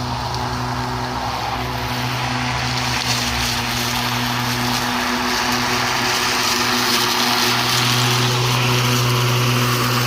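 Hart 20V 16-inch cordless lawn mower running under load, a steady electric-motor hum over the hiss of the blade cutting through long, thick grass.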